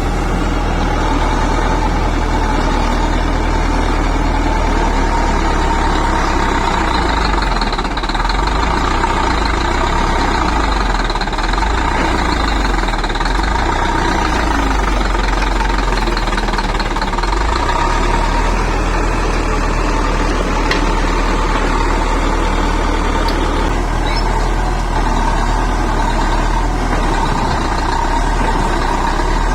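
Bulldozer's diesel engine running steadily, with a steady whine over its low drone.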